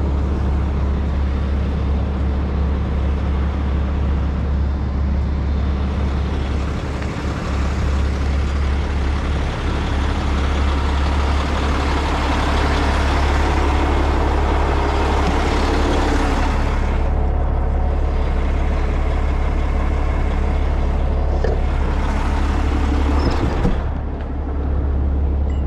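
Heavy rotator tow truck's diesel engine running steadily with a deep hum, growing louder and noisier for several seconds in the middle before settling back.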